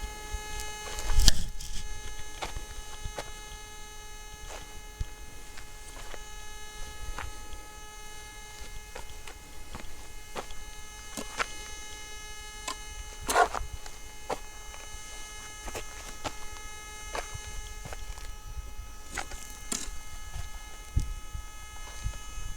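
A steady high hum, one tone with evenly spaced overtones, with faint ticks about every two-thirds of a second and a few louder clicks.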